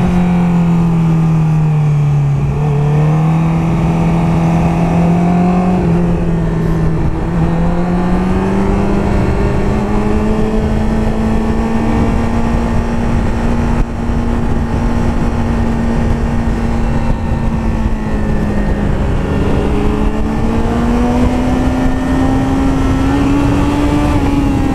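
Sportbike engine running at a steady cruising speed, its pitch dipping slightly about two seconds in and then climbing slowly toward the end, with wind rushing over the helmet microphone.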